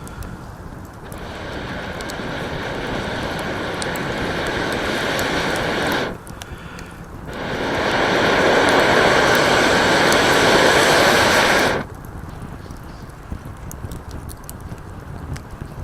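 Bialetti stovetop espresso maker (moka pot) on a campfire hissing and sputtering as steam forces the coffee up into the top chamber, the sign that extraction is under way and nearing its end. The hiss swells, breaks off briefly, comes back louder and stops suddenly, over light crackling of the fire.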